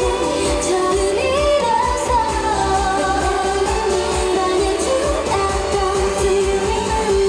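K-pop song with a girl group singing over a pulsing bass beat, played loud through a stage sound system.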